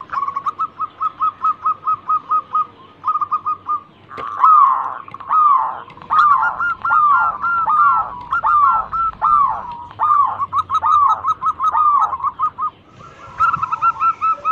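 Zebra dove (perkutut) cooing. It opens with a quick run of short coos, about four a second. A series of louder, arched coos follows, about one and a half a second, and a fast run starts again near the end.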